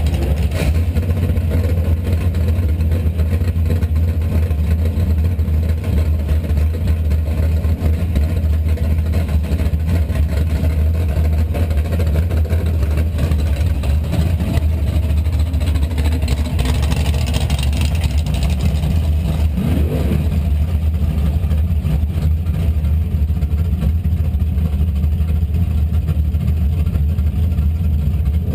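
Car engine idling steadily, a deep, even low drone heard from underneath the car near the rear axle.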